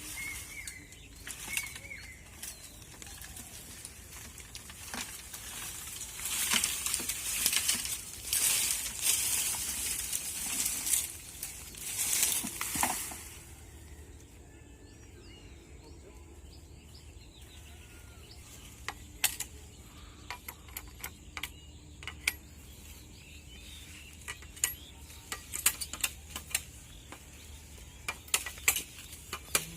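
Bamboo being cut: leaves and stems rustle and thrash in loud bursts for several seconds, then a string of sharp knocks comes irregularly as the blade strikes the stalk.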